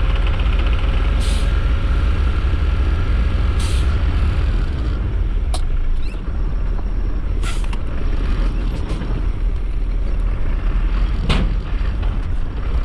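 Mercedes-Benz Atego tipper truck's diesel engine running with a steady low rumble, broken by four short sharp hisses of released air from the truck's air system.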